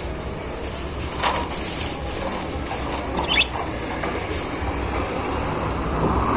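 Caged budgerigars: a sharp click about a second in and a single short falling chirp about three seconds in, over a steady low rumble.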